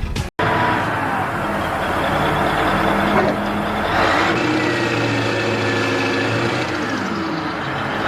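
Heavy diesel machinery engine running under load, its pitch shifting up and down, with a thin whine in the second half.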